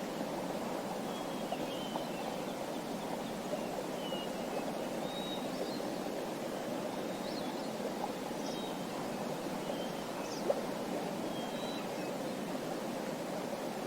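Small birds chirping in short, scattered calls over a steady rush of flowing water, with one brief click about ten and a half seconds in.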